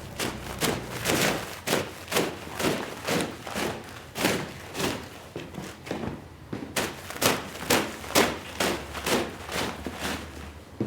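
Rhythmic strokes of a tool working a wet rug, about two a second. Each is a short swish with a dull thump, and a few near the middle are louder.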